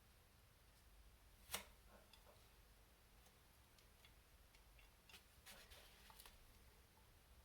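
Near silence with faint clicks of small metal parts and tools being handled during model kit assembly: one sharper click about a second and a half in, and a cluster of light ticks a little past halfway.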